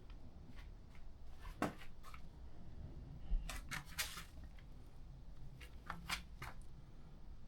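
Faint, scattered clicks and rustles of something being handled, with short clusters of ticks about two, four and six seconds in, over a low background hum.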